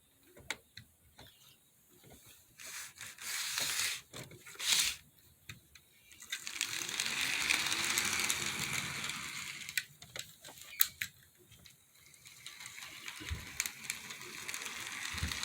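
HO scale SD40 model locomotive running on the track: gear and wheel rattle with clicks over the rail joints, growing louder for a few seconds about six seconds in, then again near the end.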